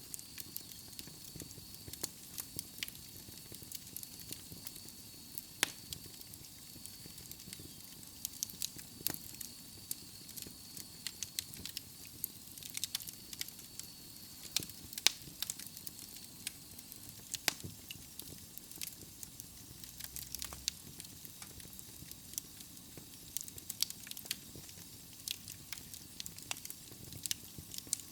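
Wood logs burning in a fireplace, crackling with irregular sharp pops over a soft hiss. A faint, steady high whistle runs through the first half and fades out.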